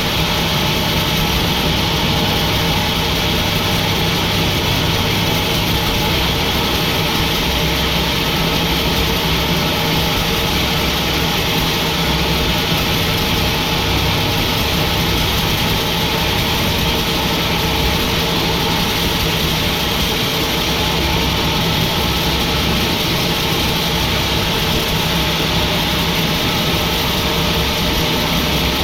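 Sawmill machinery running steadily: a constant engine drone with a steady hum, unchanging in level throughout.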